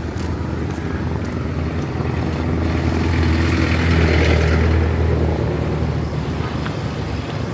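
Motor vehicle engine running with a steady low hum, swelling louder about four seconds in and then easing off.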